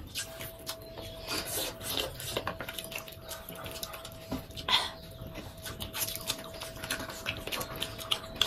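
Close-up eating sounds of people chewing and smacking their lips over food, with scattered small clicks of chopsticks and fingers. A faint steady hum sits underneath.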